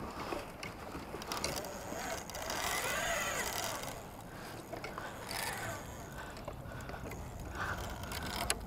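Fishing reel working under load from a hooked kingfish: a steady ratcheting, whirring mechanism, with a whine that rises and falls about three seconds in.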